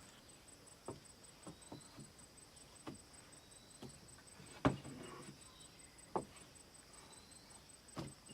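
Scattered light wooden knocks and taps, about eight at irregular intervals, the loudest a sharp knock about halfway through, as wood is handled by hand. A faint, steady, high-pitched pulsing tone continues behind them.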